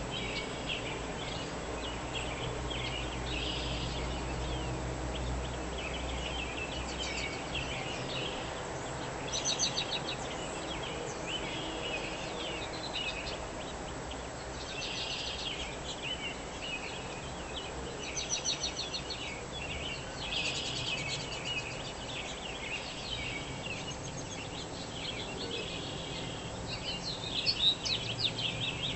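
Dawn chorus of several small birds chirping and singing over one another, with rapid repeated-note trills now and then. A low steady hum underneath fades out in the first few seconds.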